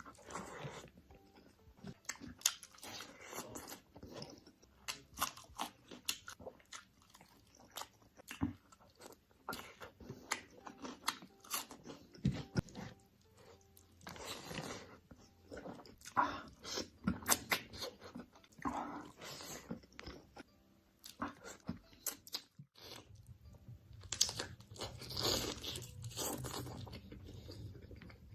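A dog biting into and chewing crunchy food, with a rapid, irregular run of crisp crunches close to the microphone.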